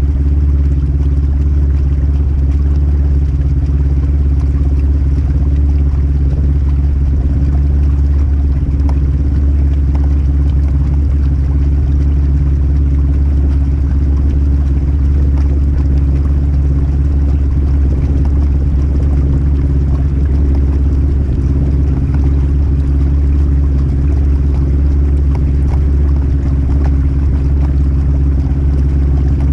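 Polaris RZR 1000 Highlifter side-by-side engine running at a steady, unchanging speed, loud throughout, with the hiss of the machine moving along.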